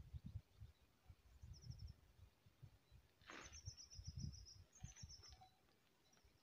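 Faint small bird song in short runs of rapid high-pitched notes: a brief run about one and a half seconds in, then a longer one about three seconds in that repeats a moment later. Irregular low muffled thumps run underneath.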